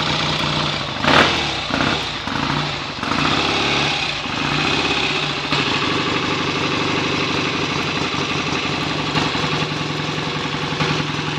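BSA A65 650 cc parallel-twin engine running on its first start after a full rebuild. About a second in there is a sharp noise, and the engine note wavers for a couple of seconds before settling to a steady idle.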